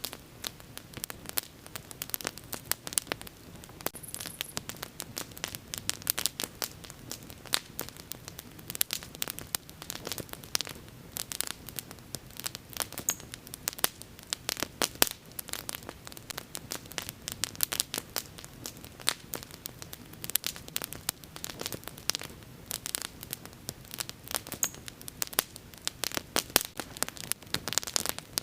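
Wood fire crackling steadily, with dense, irregular sharp pops over a low hiss of burning.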